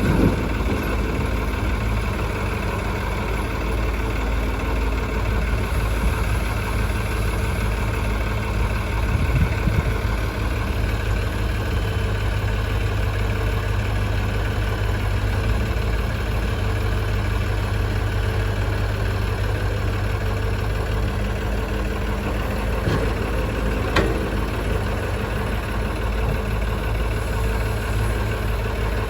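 Heavy diesel engine idling steadily, from the tractor or the backhoe loader working beside it during soil loading. A single sharp knock comes near the end.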